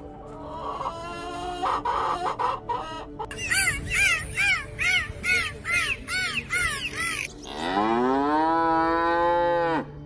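A flock of chickens clucking together, then a quick run of short rising-and-falling calls, about two a second. Near the end comes one long cow moo that rises in pitch, is held for about two seconds and cuts off sharply.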